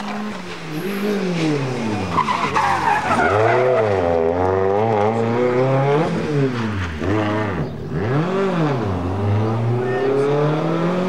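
Rally car engine revving hard and falling back again and again, about six rises and drops, with tyres skidding on the loose surface.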